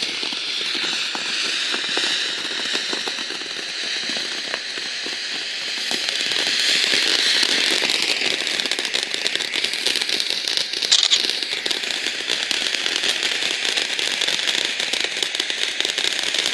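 Ground fountain fireworks spraying sparks: a steady hissing rush full of dense crackling, which grows louder about six seconds in, with a sharper crackling burst near eleven seconds.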